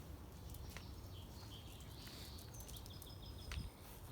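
Outdoor ambience: birds chirping faintly over a low steady rumble, with a quick run of four or five short chirps about three seconds in.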